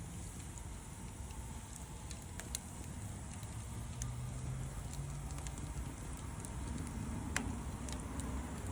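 Wood bonfire burning with a low rumble and scattered sharp crackling pops, the loudest pop near the end.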